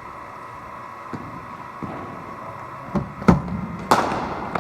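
Cricket bowling machine humming steadily while it delivers a ball, with a few soft thuds, then a sharp crack of the bat striking the ball about three seconds in and a second knock with a short rattle just after.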